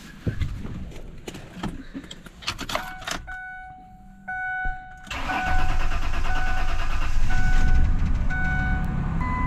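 A few clicks and knocks, then a warning chime beeping. About five seconds in, a Ford truck's engine starts and runs on, with the chime still sounding now and then. It is starting on a battery that has just been recharged after running weak.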